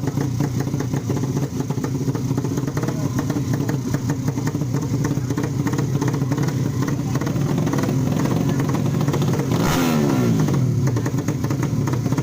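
A 155cc drag-race motorcycle engine runs steadily at a fast idle. Near the end, its pitch sweeps sharply downward.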